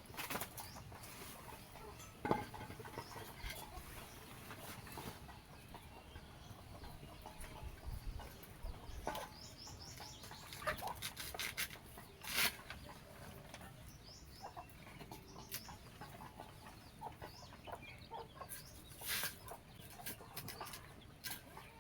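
Faint, short bird chirps among scattered clicks and knocks.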